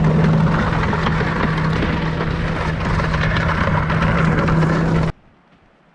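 Snowmobile engine running at a steady pitch under way, with wind and track noise. It cuts off suddenly about five seconds in, leaving faint wind.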